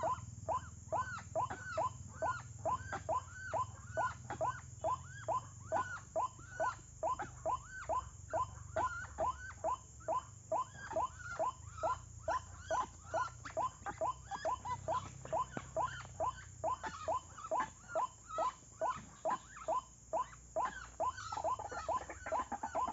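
White-breasted waterhen calling over and over, one arched, rising-and-falling note repeated about twice a second.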